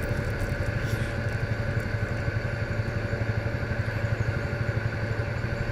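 Yamaha Majesty scooter's single-cylinder engine running steadily, an even low rumble with a thin steady whine above it.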